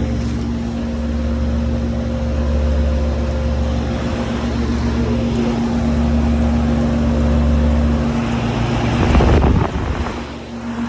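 Two 1990 Lennox HS18 air-conditioner condensing units running: a steady compressor hum under the whoosh of the condenser fans. About nine seconds in, a brief louder burst of noise rises over it, then the level dips.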